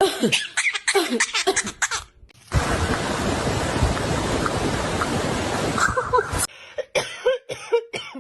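Parrot vocalising in short falling squawks with clicks, broken by about four seconds of loud, steady hiss that cuts off suddenly.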